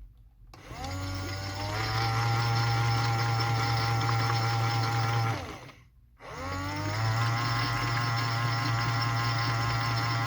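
AEG/Electrolux Lavamat 84950 washing machine's drum motor tumbling the load during a rinse: it starts with a rising whine, runs steadily for about five seconds, stops for under a second, then starts up again.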